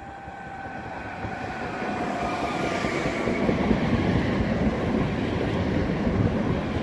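Train approaching along the track and drawing close, growing louder over the first few seconds to a steady rumble of wheels on rails, with a few high tones falling slowly in pitch as it nears.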